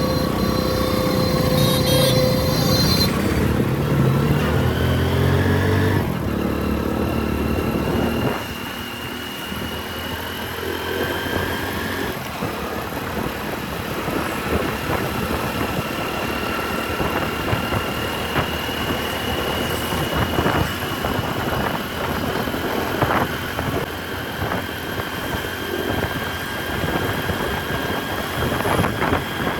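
Motorcycle engine and road noise from the bike being ridden through city traffic. It is louder for the first several seconds and drops about eight seconds in. After that a thin whine slowly rises in pitch, with a few short knocks in the second half.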